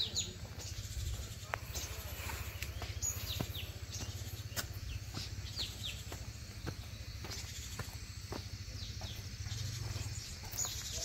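Birds calling with short, high chirps that fall in pitch, repeated every second or so, over a steady low rumble.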